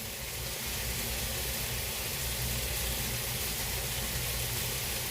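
Food frying in a pan on the stove: a steady sizzle.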